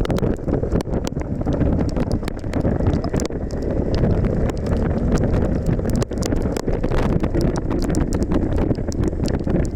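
Heavy wind buffeting a motorcycle-mounted microphone at riding speed, a steady low rumble. Many scattered sharp ticks of raindrops hit it.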